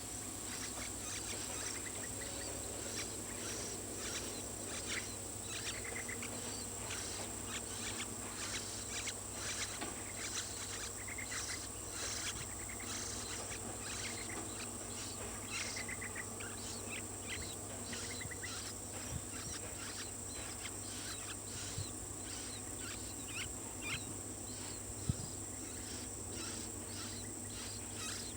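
Rapid, repeated short chirps of a bird, typical of a hungry chick begging to be fed, over a steady high insect drone and a low hum.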